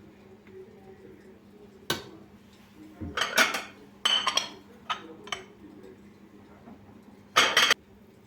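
Dishes and cutlery clinking and clattering as they are handled: a sharp knock, then several short bursts of clatter, the last one near the end.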